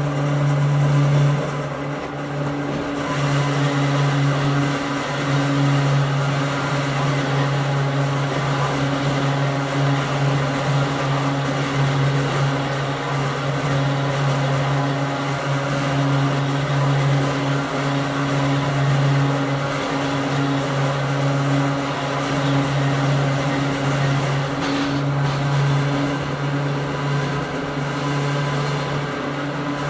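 Hakone Tozan Railway Moha 1 electric railcar, heard from inside the car, running with its nose-suspended traction motors humming at a steady pitch over wheel and rail noise.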